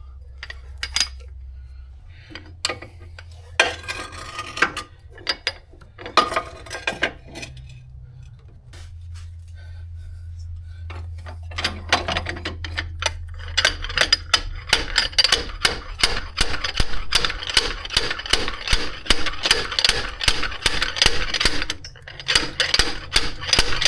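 Slide hammer with a CV-axle puller attachment being worked against the back of a front drive axle to pull it out of the transmission: scattered metal clacks at first, then from about halfway through a fast, steady run of repeated sliding-weight impacts until the axle comes free.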